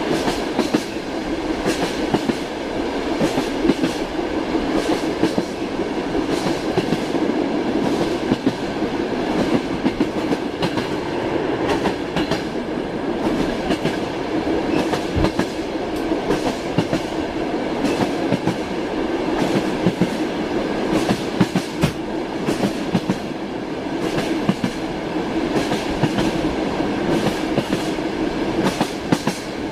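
Passenger train carriage in motion, heard from inside a compartment: a steady rumble and hum with frequent clacks of the wheels passing over rail joints.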